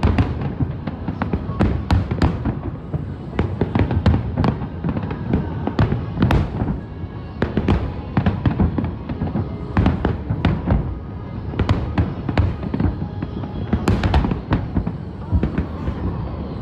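Aerial fireworks bursting in quick, irregular succession: a dense run of sharp bangs, several a second.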